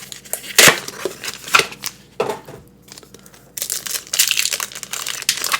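Plastic packaging of a Pokémon card sleeve blister crinkling as it is handled and opened: a few sharp crackles in the first couple of seconds, then continuous crinkling from a little past halfway.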